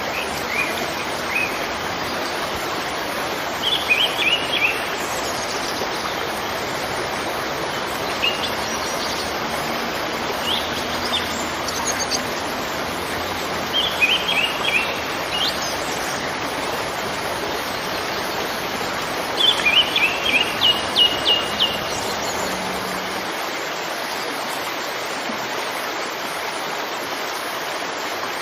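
Steady rush of a waterfall, with short runs of bird chirps breaking in every few seconds; the loudest is a quick string of chirps about twenty seconds in. Near the end the deep rumble of the water thins out.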